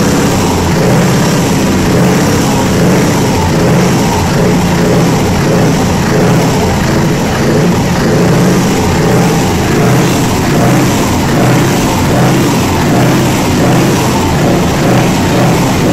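Scania T 580 truck's V8 diesel engine running loudly at fairly steady revs, its level swelling slightly about once a second.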